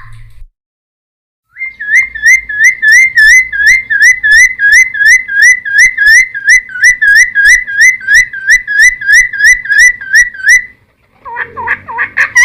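Cucak timor (helmeted friarbird) singing: a long, fast run of identical whistled notes, about four a second, for some nine seconds, then after a short pause a more varied, jumbled phrase near the end.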